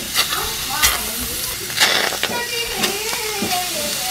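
Pieces of raw chicken skin dropped one by one into a hot stainless steel pot, landing with a few soft slaps over a steady sizzle as they start to fry in their own fat. A faint wavering tone sounds in the background in the second half.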